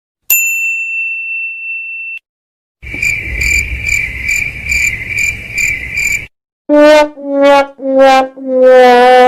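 Three stock comedy sound effects in turn: a single high ding that rings for about two seconds, then cricket chirping repeating about twice a second, then a sad trombone playing four falling notes, 'wah wah wah wahhh', with the last note held.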